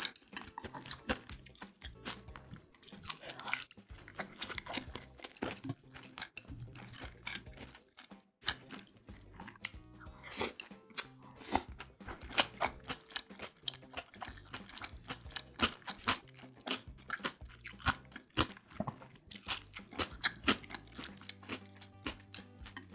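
Close-miked chewing of kimbap, with many small crisp crunches.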